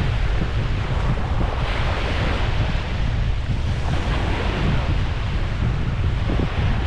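Wind buffeting the microphone in a steady low rumble, over the wash of surf on the beach.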